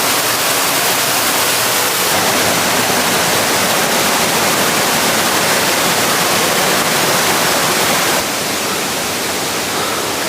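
Steady rushing water of a mountain stream, a dense even noise, dropping a little in level about eight seconds in.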